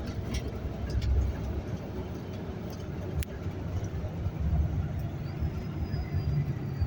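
Steady low rumble of a vehicle in motion, with a few faint clicks and a faint high whine that sets in about five seconds in.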